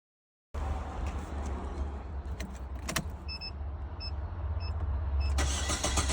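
2016 Holden Barina engine running steadily, now starting and running with ignition control restored by a replacement PCM. A short electronic beep repeats about every half second in the middle, and the running gets louder near the end.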